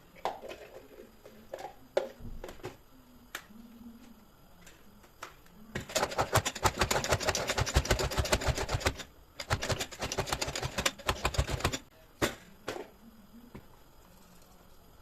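A rapid, even run of sharp clicking strokes from kitchen work, in two bursts of about three and two seconds, with a few single knocks before and after.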